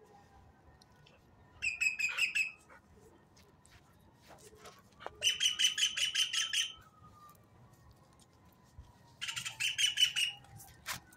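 A bird calling in three bursts of rapid, evenly repeated chattering notes, each burst about a second long and a few seconds apart.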